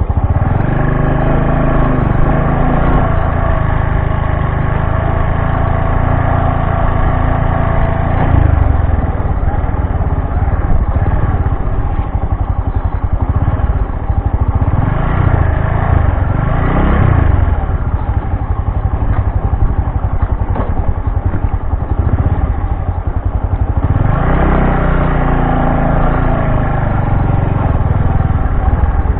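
Bajaj Boxer BM 150 X motorcycle's single-cylinder engine running while riding. Its note stays steady at first, shifts about eight seconds in, rises and falls around the middle, and changes again near the end as the throttle and gears change.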